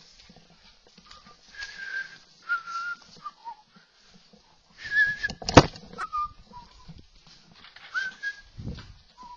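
Whistling in short, separate notes, some held and some gliding in pitch, with a single sharp knock about halfway through.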